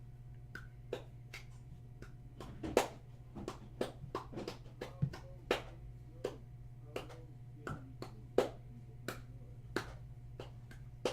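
Irregular sharp clicks and taps, about one or two a second, from trading cards and their hard plastic holders being handled, over a steady low electrical hum.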